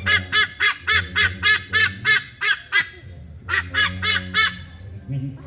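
Goose honking repeatedly in a fast run of short calls, about four a second, then pausing for well under a second before a second, shorter run.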